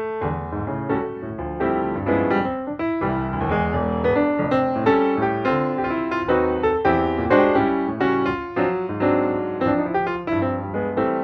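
Instrumental piano music: a flowing run of notes and chords.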